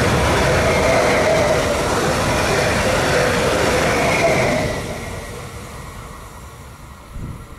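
Train passing loudly, rolling rail noise with a wavering whine over it, dropping away about five seconds in as the train goes by and the sound fades.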